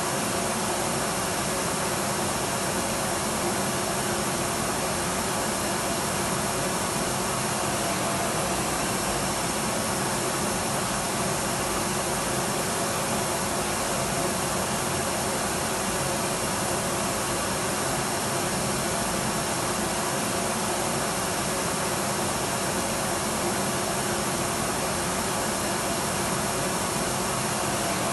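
Electric vacuum cleaner running steadily, a constant motor-and-airflow hiss with a faint steady hum, unchanging throughout.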